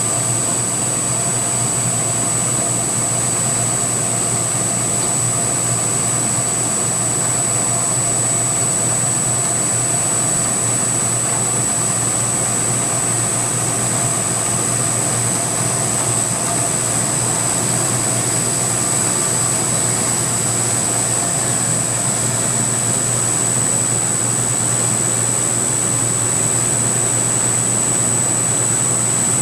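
CNC milling machine with a belt-drive spindle running steadily while a high-speed-steel end mill takes a slow cut, with a constant high-pitched whine over the machining noise.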